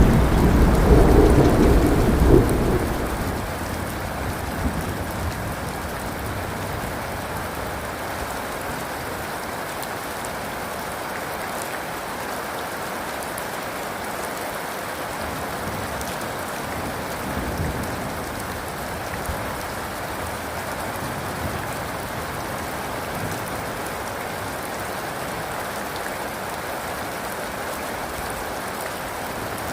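Rain falling steadily on surfaces; a low thunder rumble at the start dies away within about three seconds, leaving an even hiss of rain.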